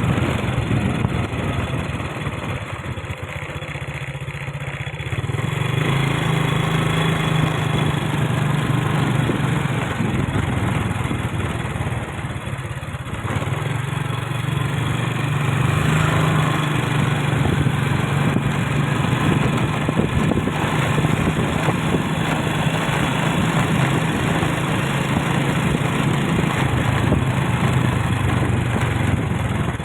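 Motorcycle engine running steadily on the move, with road noise; it eases off twice, about two to five seconds in and again around twelve seconds in, then picks up again.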